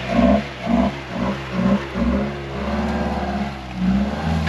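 Vehicle engine revving in short repeated bursts, about two a second, as it works over a rough off-road obstacle, then holding a steadier rev with a brief dip near the end.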